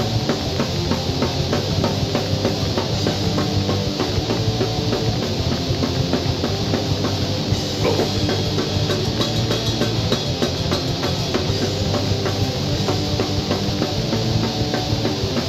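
Heavy rock music: distorted electric guitars over a steady, driving drum beat, with no vocals.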